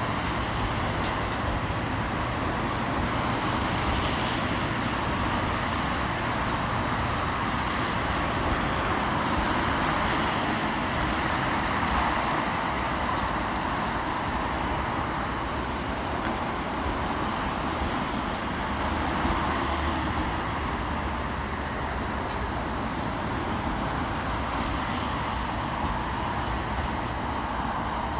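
First Great Western passenger carriages rolling over a steel girder railway bridge: steady wheel and track noise that keeps up without a break as the coaches pass.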